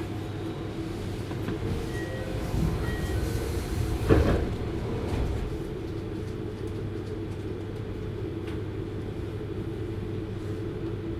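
JR Hokkaido 733 series electric train running: steady rolling noise with a low, even hum. There is a single sharp knock about four seconds in.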